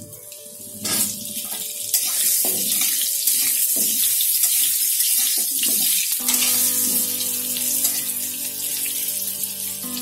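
Halved potatoes sizzling as they fry in hot mustard oil in a metal kadhai, a steady loud sizzle that builds about two seconds in. A flat steel spatula scrapes and knocks now and then as the potatoes are turned.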